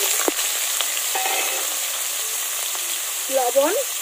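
Diced potatoes sizzling in hot mustard oil in a karahi, freshly tipped in, a steady hiss fading slightly. A short knock about a third of a second in.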